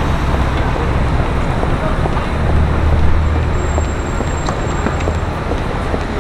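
Street traffic: a steady low rumble of passing vehicles that swells about two and a half seconds in as one passes close, then eases off.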